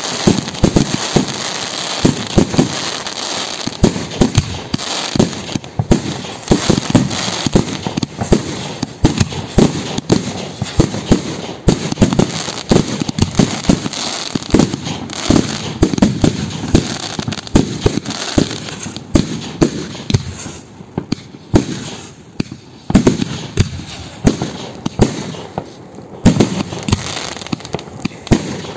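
Professional fireworks display: a rapid, continuous barrage of sharp bangs from shell bursts and multi-shot cakes firing, with crackle between them. The bangs thin out for a few seconds past the middle, then pick up again.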